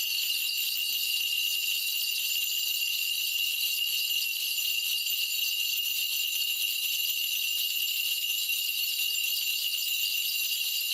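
A shaman's cluster of brass ritual bells (mudang bangul) shaken continuously in a steady, high jingling, as she calls on the spirits during a divination.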